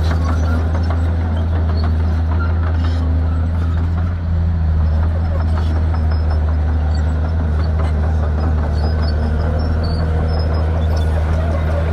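Shantui crawler bulldozer's diesel engine running at a steady speed, with a continuous metallic rattle over it.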